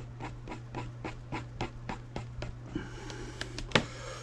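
Epoxy being stirred with a mixing stick on a waxed plate: the stick scrapes and taps at about four strokes a second, then slows, with one sharper click near the end.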